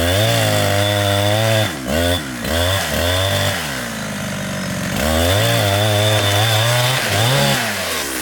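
Chainsaw running hard while cutting a tree. Its engine pitch sags and recovers several times, drops lower for about a second around the middle, then revs back up.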